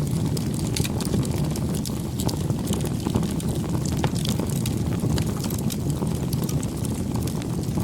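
Wood campfire burning: many quick sharp crackles and pops over a steady low rush of flame.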